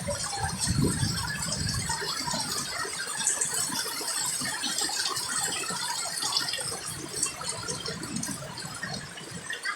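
Heavy rain falling, a dense patter of many drops with a steady hiss. A low rush of flowing water is heard in the first two seconds.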